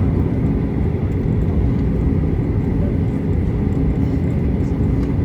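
Cabin noise of a Boeing 737-800 taxiing: a steady low rumble from its CFM56-7B engines at idle and the rolling airframe, with a faint steady whine above it.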